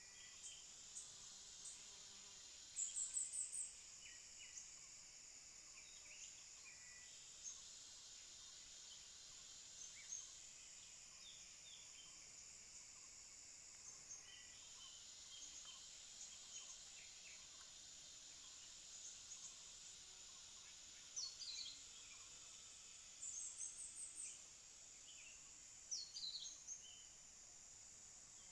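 Steady high-pitched insect buzz from the surrounding vegetation, with a few short, rapid chattering bird calls: one about three seconds in and another near twenty-three seconds, plus quick falling chirps around twenty-one and twenty-six seconds.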